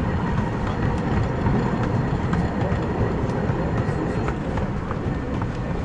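Miniature steam train rolling along its track: a steady low rumble of wheels on rail, with scattered faint clicks.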